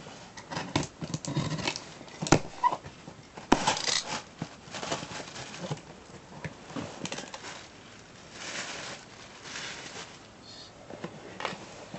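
Packaging being handled as a box is unpacked: irregular rustling and crinkling with several sharp clicks and knocks, the loudest about two and three and a half seconds in.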